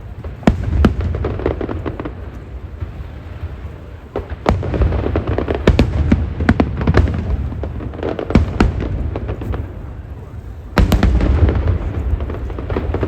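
Aerial fireworks show: a string of sharp shell bursts over a continuous low rumble and crackle, growing denser and louder about eleven seconds in.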